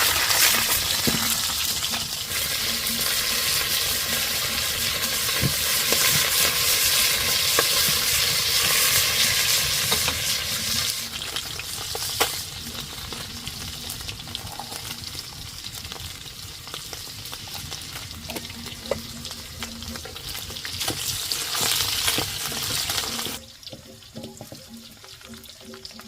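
Food sizzling as it fries in a hot pan, with a few sharp clicks; the sizzle eases off partway through, swells again, and drops away suddenly near the end.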